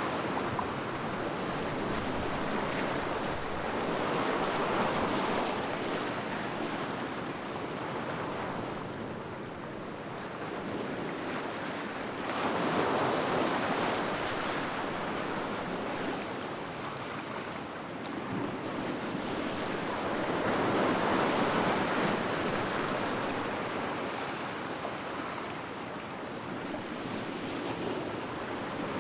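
Sea waves breaking and washing on the shore, a continuous surf rush that swells and ebbs every several seconds, with the loudest surges about 4, 13 and 21 seconds in.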